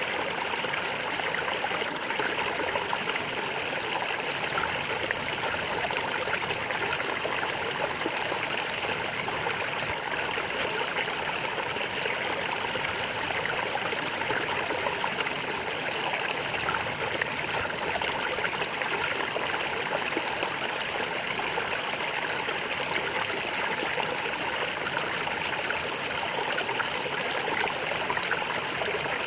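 Stream water gurgling and flowing steadily.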